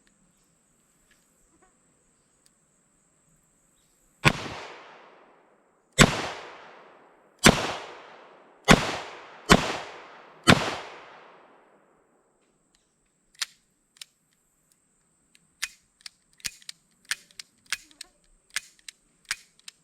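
Smith & Wesson Model 66-8 .357 Magnum revolver fired six times, spaced one to two seconds apart, each shot trailing off in a second-long echo. This empties the six-shot cylinder. A few seconds later comes a quicker run of faint sharp clicks.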